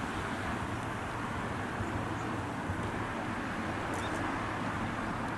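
A steady low hum under even outdoor background noise, with a faint short chirp about four seconds in.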